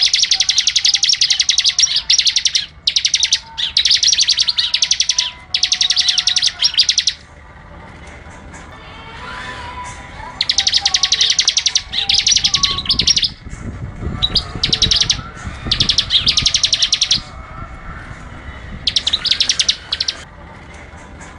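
A songbird singing rapid, high-pitched trills, delivered in repeated bursts of one to two seconds with short pauses between them, over fainter calls from other birds. This is recorded birdsong of the kind used as tutoring audio for caged songbirds.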